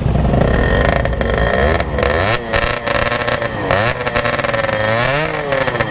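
Yamaha RX-King's 135cc two-stroke single-cylinder engine revved up and down several times, its pitch rising and falling with each blip. The engine is damaged; onlookers suspect a holed piston or else a torn reed-valve membrane.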